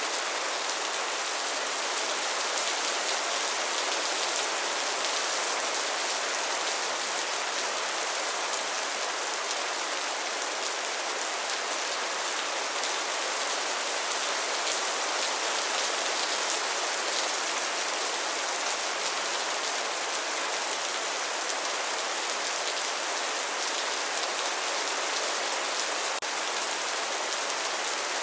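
Steady rainfall, a dense even patter of raindrops.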